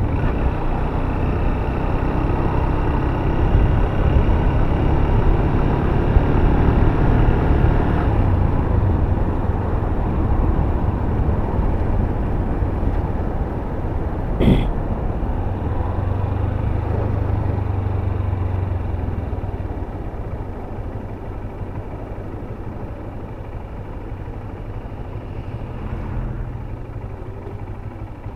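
Honda CB Hornet 160R single-cylinder motorcycle running along the road, its engine and road noise steady, with one short sharp sound about halfway through. The sound eases off in the last third.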